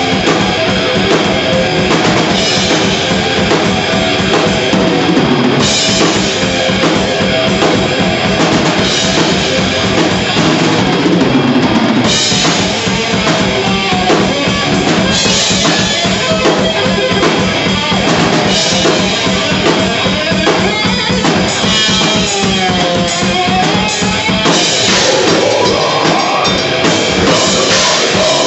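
Death metal band playing live: distorted electric guitars over a drum kit hitting rapid, steady strokes, loud throughout.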